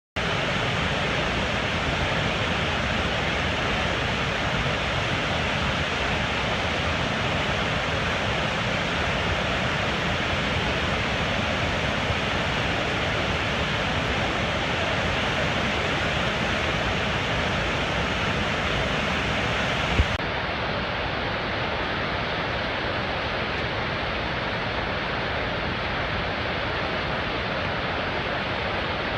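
Gullfoss waterfall's falling water, a steady dense rush. A brief click comes about two-thirds of the way through, and after it the rush sounds slightly duller.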